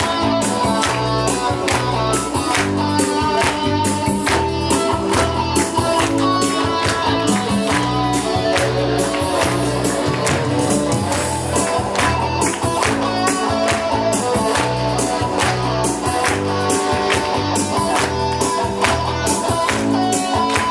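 Band music with a steady beat: an instrumental passage of a Christian worship song played at a concert, with no lyrics sung.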